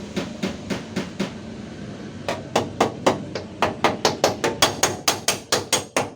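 Quick, light hammer taps on a car's sheet-metal body panel, working out a small dent. Several strikes, a brief lull about a second in, then steady tapping at about five strikes a second.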